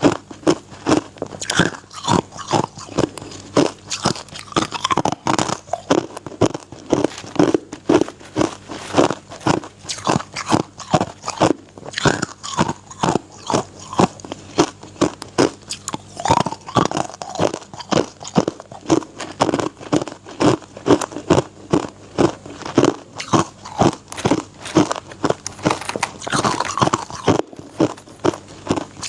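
A person biting and chewing hard ice, a steady run of crisp crunches, about two or three a second.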